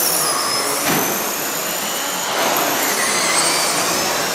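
Several radio-controlled stock trucks racing around a track together, their small motors whining steadily at high pitch.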